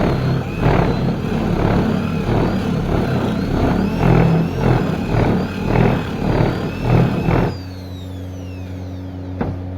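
A woodworking machine is cutting wood in rhythmic passes, about two surges a second, with a wavering high whine over a loud grinding noise. Near the end the cutting stops and only the machine's motor hum is left, with a high whistle falling away.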